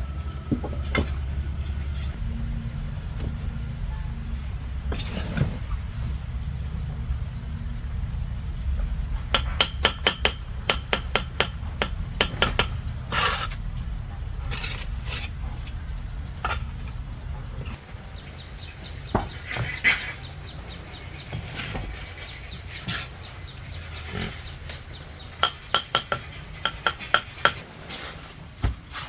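Sharp metallic clinks and knocks, some in quick runs of several strikes, over a low steady motor-like rumble that stops about eighteen seconds in.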